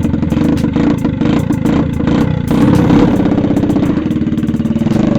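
Small gas engine running, its pitch rising and falling.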